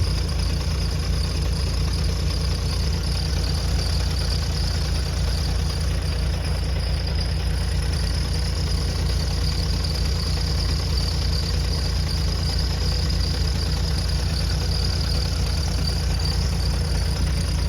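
A steady, unchanging low rumble of an idling engine.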